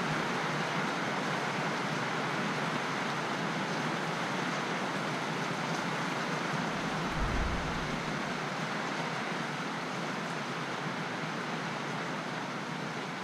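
Steady rain falling, an even hiss, with a brief low thump about seven seconds in.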